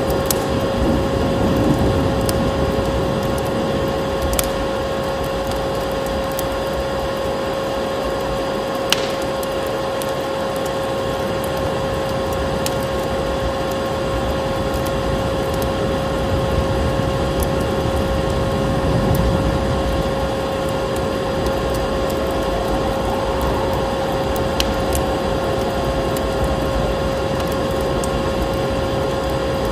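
Vacuum cleaner motor running with a steady hum over a rushing noise, mixed with the sparse sharp pops and crackles of a wood fire.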